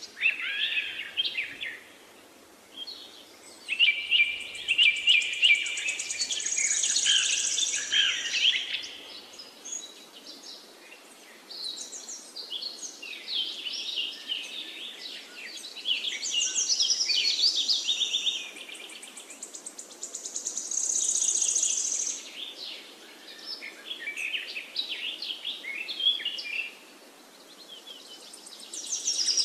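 Birds singing: overlapping chirps and rapid trills in bursts a few seconds long, with brief lulls between them.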